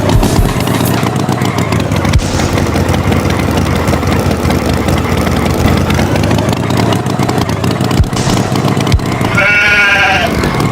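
Steady engine noise. About nine and a half seconds in there is a short wavering animal call, like a bleat.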